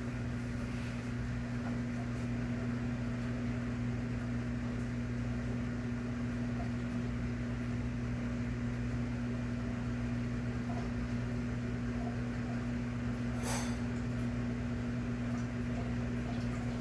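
Maytag washing machine running with a steady motor hum, with one short click about three-quarters of the way through.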